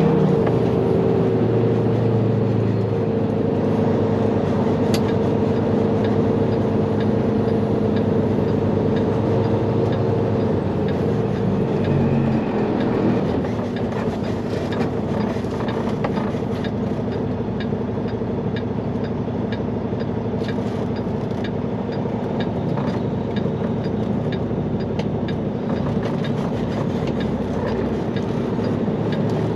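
Semi-truck diesel engine running while driving, heard from inside the cab as a steady drone with road noise and scattered small rattles; the engine note changes about twelve seconds in.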